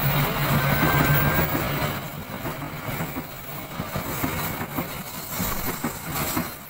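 Passenger train carriages rolling past close by: a steady rumble of wheels on rail with repeated clacks. A low hum in the first couple of seconds dies away, and the sound gets quieter after that.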